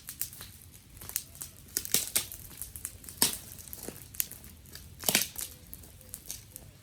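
Dry twigs and sticks crackling and snapping: irregular sharp cracks, with louder snaps about two, three and five seconds in.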